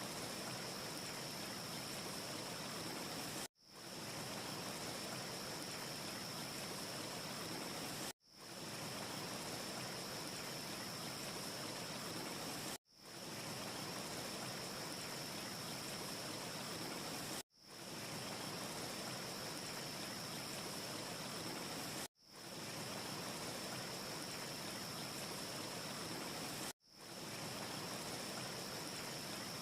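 Steady, even rushing noise with no crackles, as from a wind ambience track. It cuts out sharply about every four and a half seconds and swells back in within a second, the seam of a short repeating loop.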